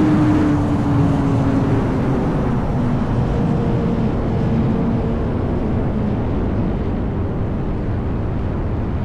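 Yamaha R1 inline-four with an SC-Project exhaust, its engine note dropping over the first couple of seconds as the bike comes off the throttle, then holding lower. Heavy wind rush runs under it throughout.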